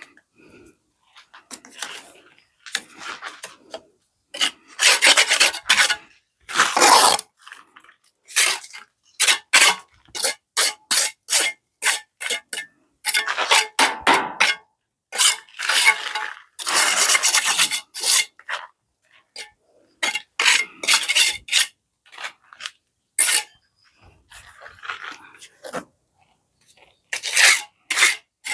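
Repeated rough scraping strokes of a hand tool in masonry work, irregular and coming in quick runs with short pauses, a few strokes longer than a second.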